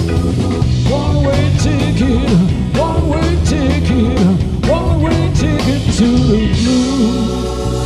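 Live blues-rock band playing: a lead guitar solo with bent, wavering notes over bass and drums, then about six and a half seconds in the band lands on a held closing chord with Hammond organ and drums.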